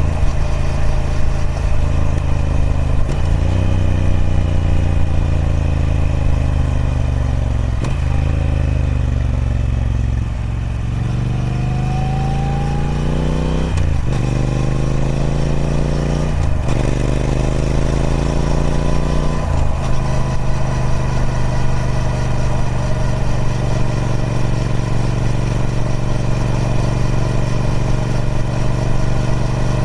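Triumph Speed Twin 1200's parallel-twin engine through its stock exhaust, under way. It slows with a couple of blipped downshifts, then pulls hard up through three quick upshifts, each a sudden drop in revs. For the last third it settles to a steady cruise.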